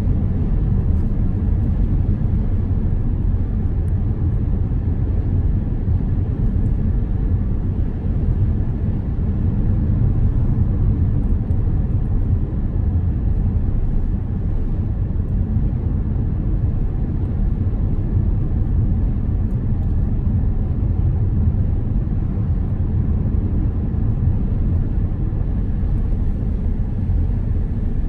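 A car driving at a steady speed, giving a steady low rumble of road and engine noise.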